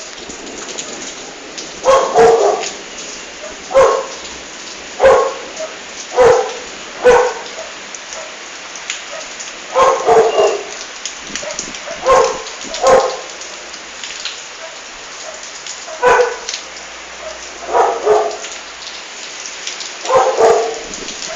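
Steady rain falling, with a dog barking over it: about a dozen short barks, singly or in quick pairs, every second or two.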